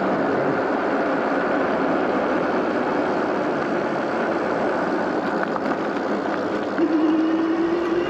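Steady wind and road rush from riding a SUPER73 electric bike, with a thin whine that rises slightly in pitch near the end.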